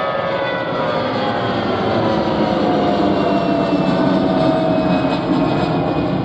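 Airliner passing close by, its engines loud and steady, with several tones that slowly fall in pitch.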